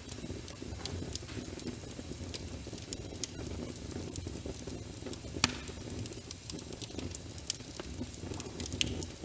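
Wood fire in a fireplace crackling, with scattered sharp pops over a steady low rumble; the loudest pop comes about five seconds in. Rain is mixed in with it.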